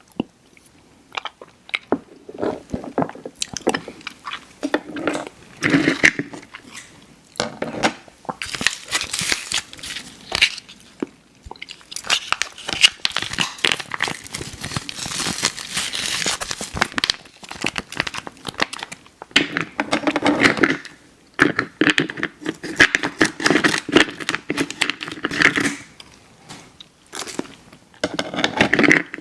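Close-miked eating of chewy Airheads candy: wet chewing and biting mixed with crinkling and tearing of a candy wrapper, in irregular spells.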